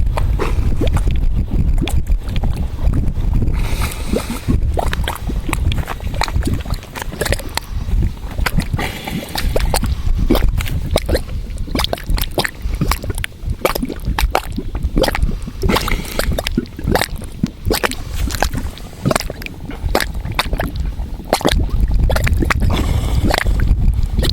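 Bubbling mud pot: gas bubbles bursting through thick mud in quick, irregular pops and gurgles, over a low rumble of wind on the microphone.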